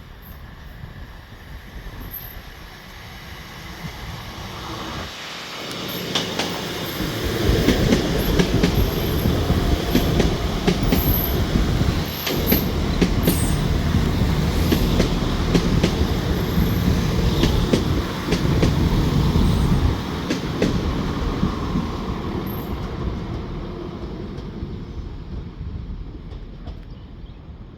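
Diesel passenger train passing over a level crossing: it builds up over a few seconds, runs loud for about thirteen seconds with its wheels clicking over the rail joints and a faint high wheel squeal, then fades away.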